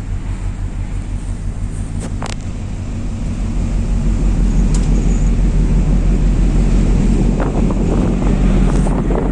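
Ship's engine hum, steady and low, under wind and sea noise that grows louder about four seconds in.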